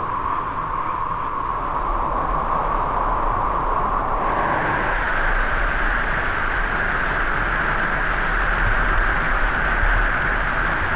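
Waterfall and river water rushing steadily. About four seconds in, the sound brightens and grows slightly louder.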